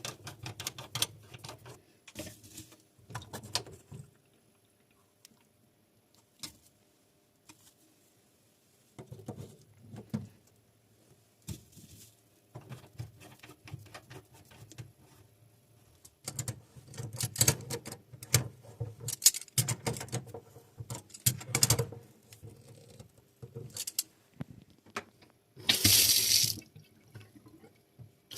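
A kitchen single-lever mixer tap turned on and off several times: water running in short bursts, with clicks and knocks from handling, the loudest burst near the end.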